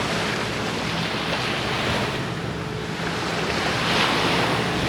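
Sea waves washing onto a sandy beach, a steady surf rush that swells louder about three to four seconds in, with wind buffeting the microphone.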